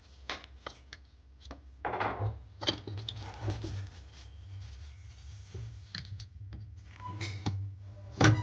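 Hand work on parts: scattered clicks, scrapes and rubbing, with a sharp knock near the end, over a low steady hum.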